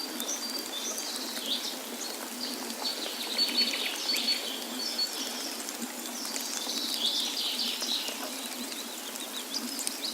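Several birds chirping and calling, with repeated short high notes and busy clusters of chirps, over a steady rush of falling water from a waterfall.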